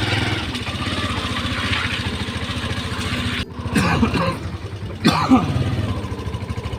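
Small motorcycle engine running steadily. It drops out abruptly for a moment about three and a half seconds in, and brief voices come in after it.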